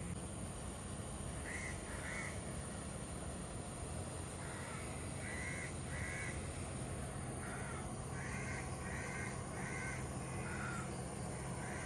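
A bird calling in a series of short, repeated calls: a couple about two seconds in, then a quicker run of several from about the middle to near the end. A steady low hum runs underneath.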